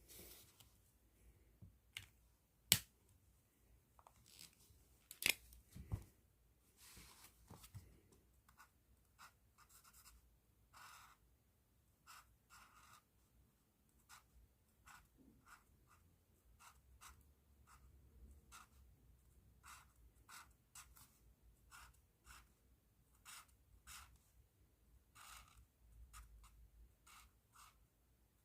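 Pen nib scratching across paper in short, repeated strokes, with two sharp clicks in the first few seconds.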